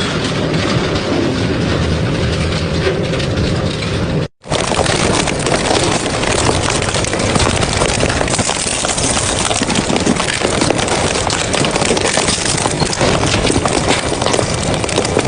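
Double-shaft industrial shredder running and crunching scrap between its cutter shafts: a steady grinding with dense cracking and snapping. The sound breaks off for an instant about four seconds in, then carries on.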